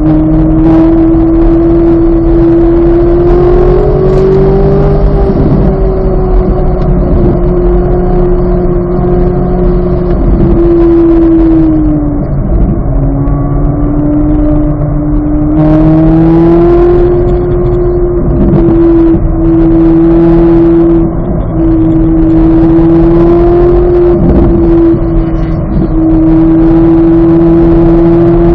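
2023 Chevrolet Corvette Z06's flat-plane-crank V8 running hard and loud at sustained high revs on track. Its pitch rises and falls gently, with a brief drop and climb about twelve seconds in.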